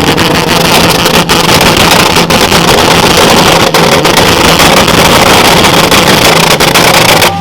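Car engine held on a two-step launch limiter: revs pinned at one steady pitch with rapid crackling and popping from the exhaust, very loud, cutting off sharply near the end.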